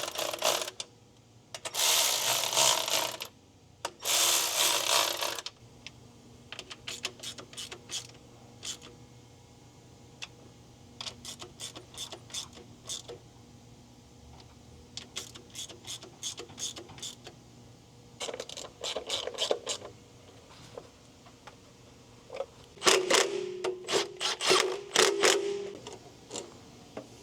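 Ratchet working fasteners on a Honda H22 engine's valve cover, in several bursts of rapid clicking with scattered slower clicks between them. A motorised tool whines briefly under the last burst, near the end.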